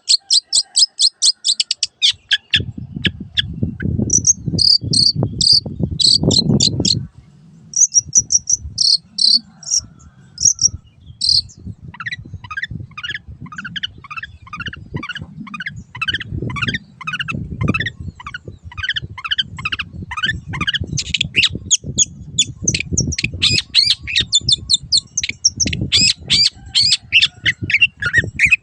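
Long-tailed shrike (cendet) singing: fast bursts of sharp, high chips, then from about halfway a long run of quick down-slurred notes, several a second. A low, uneven rumble runs underneath much of it.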